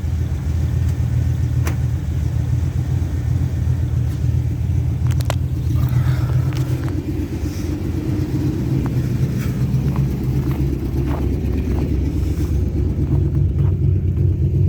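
Old pickup truck's engine idling steadily just after a cold start in freezing weather.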